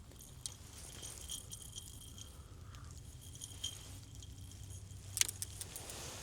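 Light metallic jingling and clicking of fishing gear being handled on a boat, with one sharper click near the end, over a low steady hum.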